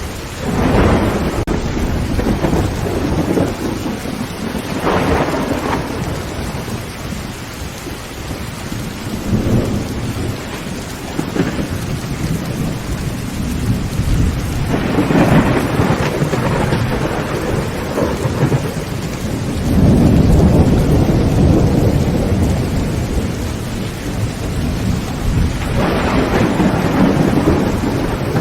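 Heavy rain drumming steadily on a tin roof, with thunder rumbling over it in repeated rolls: a swell about a second in, others around five and fifteen seconds in, a long loud low rumble about twenty seconds in, and another near the end.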